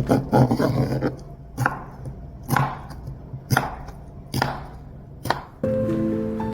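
Knife chopping food on a cutting board: single sharp strokes about a second apart, seven in all. Soft music with held notes starts near the end.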